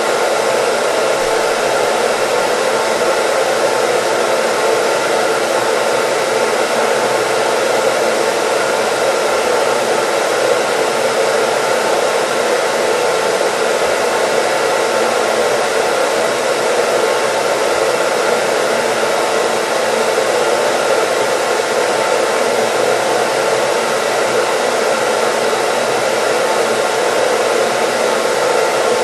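Hair dryer running steadily at constant speed: an even, unbroken whoosh of blowing air and motor hum, used as white noise.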